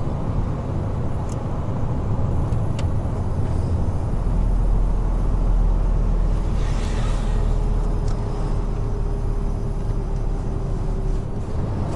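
Heavy truck running at speed on an expressway: steady low engine and road rumble, with a brief hiss about seven seconds in.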